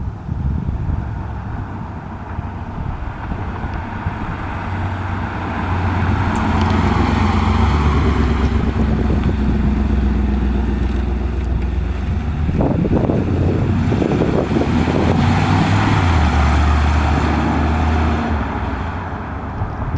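1992 Pontiac Firebird's 305 V8 running as the car is driven, growing louder about a third of the way in, with wind on the microphone.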